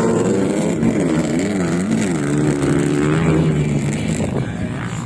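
Motocross dirt bike engines revving, their pitch rising and falling as the bikes ride the track. The engine sound thins out about four seconds in.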